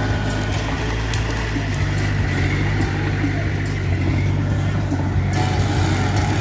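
Mitsubishi BD2F bulldozer's diesel engine running steadily under load, with faint scattered clicks.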